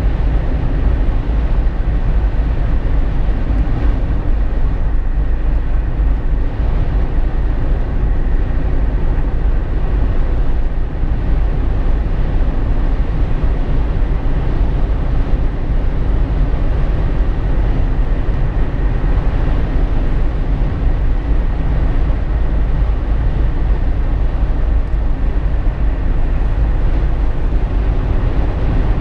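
Jeep Wrangler JK driving, heard inside the cabin: a steady, unchanging deep rumble of road, tyre and engine noise.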